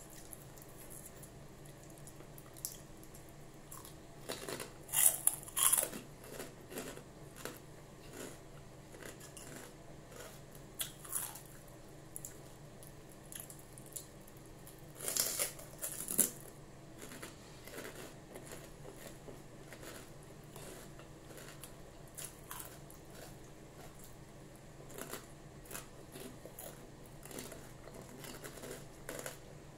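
Close-up crunching and chewing of crispy chicharon pork rinds, in a run of short crackly bites with the loudest crunches about five seconds in and again around fifteen seconds in.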